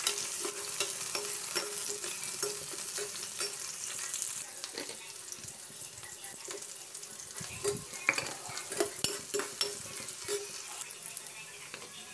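Chopped vegetables sizzling in hot oil in a wok as a steel spoon stirs them, with repeated scrapes and clicks of the spoon against the pan over a steady sizzle.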